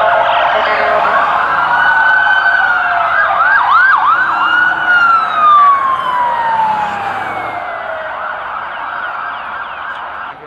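Emergency vehicle siren wailing, switching to a quick yelp about three to four seconds in, then dropping into a long falling wail that fades as it passes.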